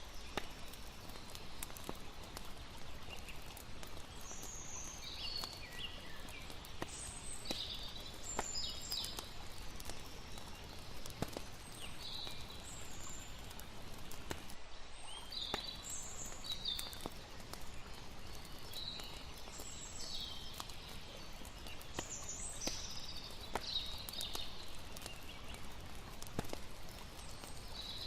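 Layered campfire-and-river ambience: a steady rush of flowing water with scattered sharp crackles of a wood fire, and many short, high bird chirps.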